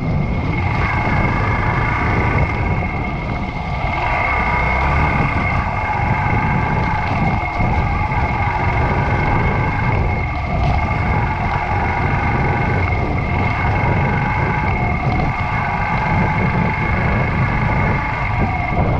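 Yamaha YBR125's single-cylinder four-stroke engine running steadily while the motorcycle is ridden, heard as a dense low rumble with a steady whining tone above it.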